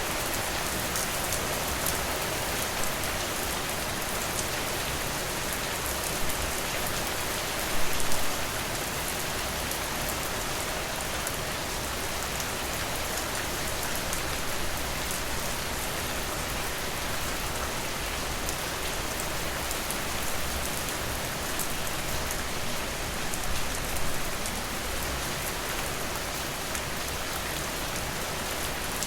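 Steady rain falling, with many individual drops tapping. It grows briefly louder about eight seconds in, and again shortly before the last few seconds.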